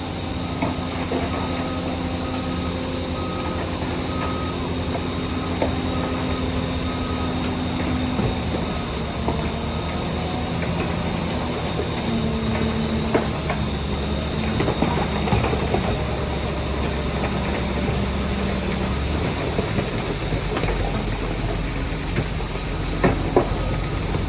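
Heavy diesel engine of a crawler bulldozer working, its note shifting several times as the load changes, with occasional sharp metallic knocks.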